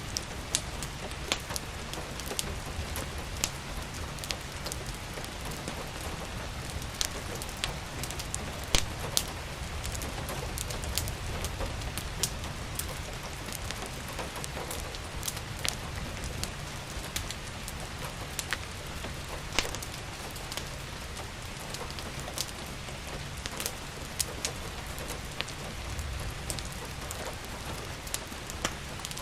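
Steady rain falling, with irregular sharp pops and crackles from a wood fire burning in a fireplace.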